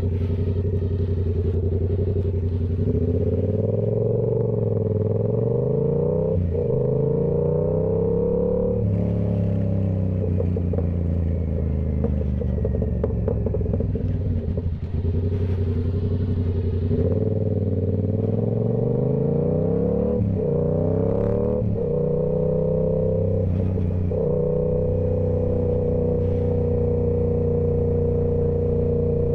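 Yamaha YZF-R7's parallel-twin engine through a Toce full exhaust, heard from the rider's seat. It pulls up through the revs several times, each pull broken by a sharp gear change, and runs at steady revs in between and near the end.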